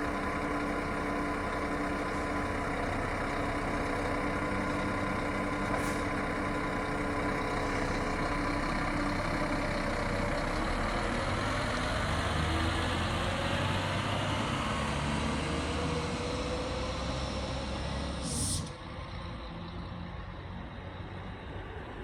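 Scania coach diesel engine running, its note climbing through the middle stretch. A brief air hiss about six seconds in and a loud air-brake hiss near the end, after which the engine sound falls away.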